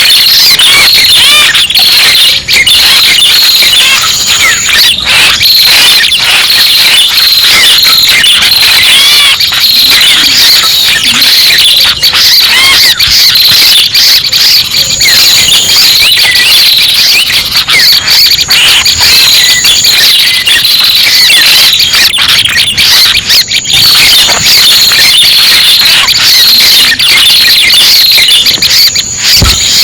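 Loud, continuous bird-lure recording of red-headed prenjak calls: dense, rapid, high chattering and trilling with no pauses, and a thin steady high whistle that comes and goes.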